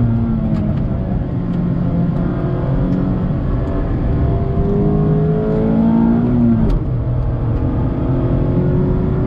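2019 Mazda MX-5 RF's 2.0-litre inline-four pulling hard in second gear, heard from the open cockpit with wind rush: its note climbs steadily, dips briefly about six and a half seconds in, then climbs again.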